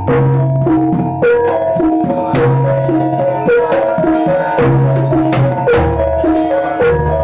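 Jaranan gamelan accompaniment: metal mallet-struck keyed instruments play a repeating melody of ringing notes over sharp hand-drum strokes and low held tones.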